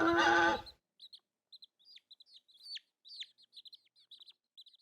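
A loud, harsh call that cuts off under a second in, then birds chirping in many short, high notes, some sweeping quickly downward.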